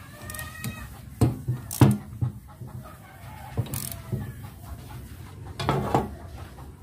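A chicken clucking nearby, heard as a short pitched call in the first second, with a series of sharp knocks and clanks throughout; the knocks are the loudest sounds.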